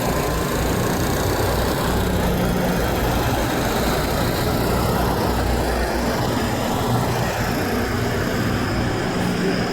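Steady heavy-vehicle engine and road noise, with the low hum of a truck's engine running under it.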